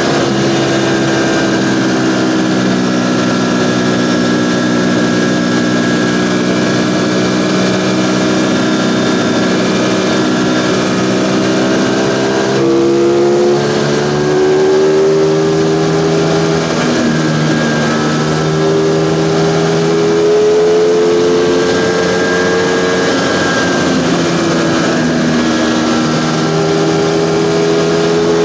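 Ducati Panigale V4's V4 engine running under way, heard close on the bike. Its note sinks slowly for about twelve seconds, then rises and drops again several times as the throttle and gears change.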